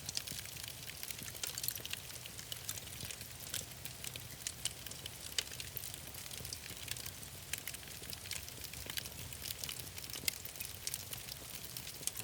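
Wood fire crackling in a fireplace: irregular sharp pops and snaps over a steady hiss and low rumble.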